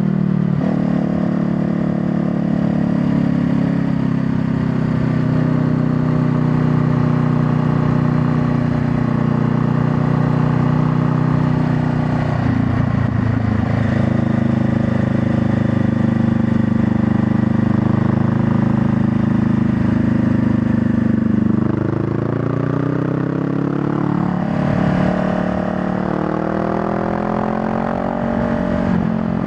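Honda Rebel 500's parallel-twin engine running under way at steady revs for most of the stretch. Later the revs drop and climb twice, like gear changes each followed by acceleration.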